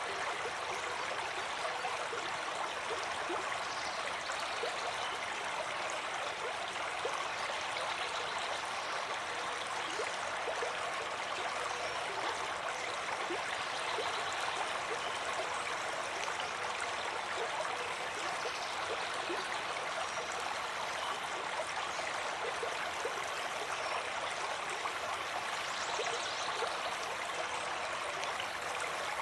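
Water flowing in a stream: a steady rush with many small gurgles and splashes.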